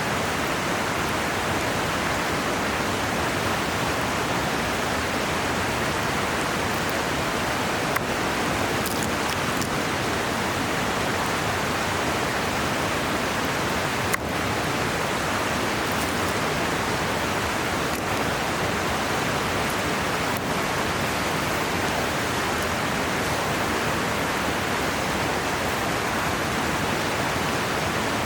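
River flowing with a steady, even rush of water, with a few faint ticks over it.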